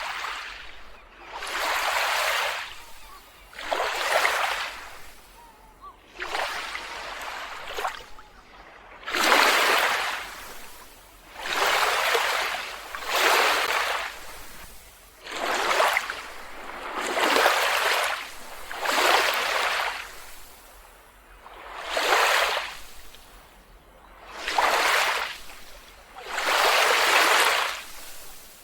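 Small waves washing onto a beach, each surge swelling and fading, about one every two seconds.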